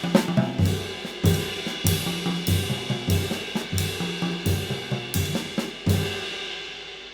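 A drum kit played in a steady groove with bass drum, snare and a 20-inch handmade B20 bronze medium-light ride cymbal (2006 g). It ends on a last strong hit just before six seconds in, and the cymbal rings on and fades away.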